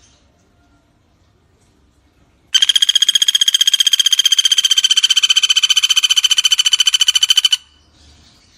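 Pelatuk bawang woodpecker giving one long rattling call: a fast, even trill of rapid notes at a steady high pitch, starting about two and a half seconds in and lasting about five seconds.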